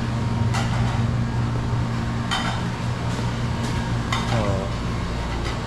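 Dishes and cutlery clinking at a self-service buffet: a handful of separate clinks over a steady low hum.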